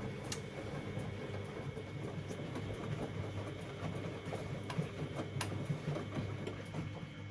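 Siemens Extraklasse XLs 140 A washing machine running a cottons 60 °C stains programme: a steady motor hum with scattered clicks and knocks as the drum turns the laundry.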